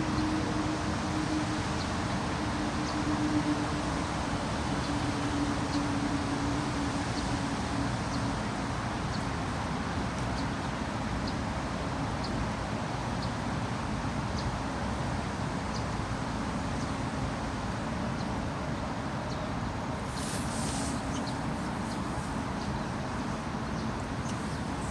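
Heavy rain falling steadily in a forest, a constant even hiss.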